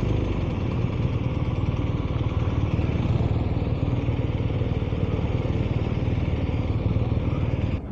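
BMW R 1250 RS boxer-twin engine idling steadily, then switched off near the end.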